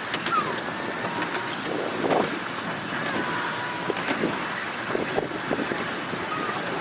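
Miniature railway train running along the track, with irregular clicks and knocks from the wheels over a steady rumble, and wind on the microphone.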